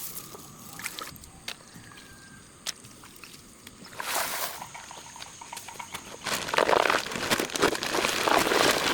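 Water sloshing and splashing: a short splash about four seconds in, then irregular sloshing from about six seconds in.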